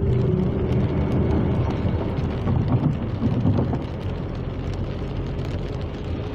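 A car driving, with steady engine and tyre noise and a few music tones fading out in the first half-second.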